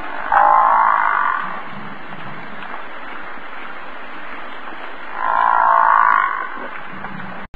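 An animal calling twice, each call about a second long and about five seconds apart, over a steady background hiss.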